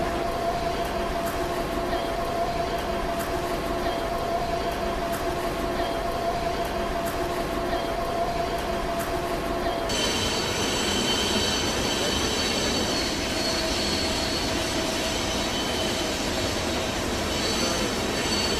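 Train rolling past with a steady rumble. About halfway through, a high-pitched steel wheel squeal sets in suddenly and keeps on.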